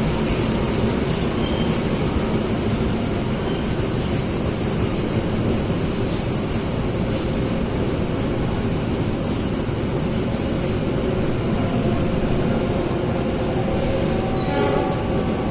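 Train rolling steadily, with a continuous loud rumble from the wheels on the rails and short high-pitched wheel squeals every second or two; the sharpest squeal comes near the end.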